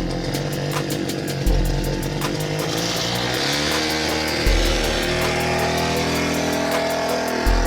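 A small mini-bike engine buzzing and revving up about halfway through, under background music with a steady beat and heavy bass hits.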